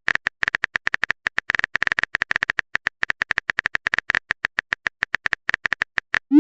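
A rapid, uneven run of short, identical electronic blips, about eight to ten a second, followed by a short rising swoop at the very end.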